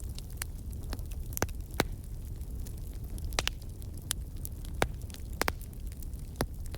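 Wood fire burning in a fireplace: a steady low rumble of the flames with irregular sharp crackles and pops from the burning logs, the loudest pops about two seconds and about five seconds in.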